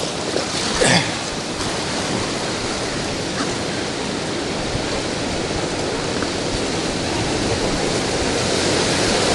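Rushing whitewater of a river rapid: a steady rush of water that grows slightly louder toward the end, with a brief splash about a second in.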